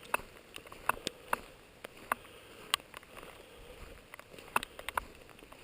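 Irregular sharp ticks of raindrops striking close by, about one to three a second, over a faint steady background of rain.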